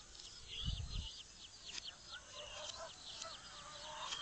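Birds chirping, a quick run of short high chirps with some lower wavering calls among them, and a single low thump about three-quarters of a second in.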